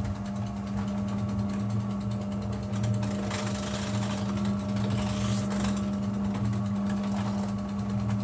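Feya-2 washing machine running: a steady low motor hum with a faint pulsing underneath and swells of splashing-like hiss now and then.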